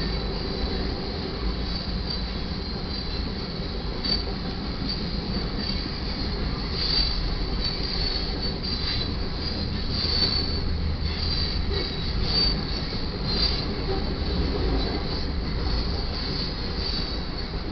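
Grain train cars rolling past on the rails with a steady low rumble, and a high wheel squeal that comes and goes.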